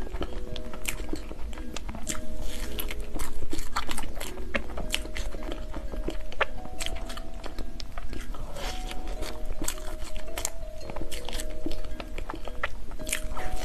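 Close mouth sounds of a person biting and chewing soft purple taro cream cake, with many irregular wet clicks and smacks. Soft background music with held notes plays under it.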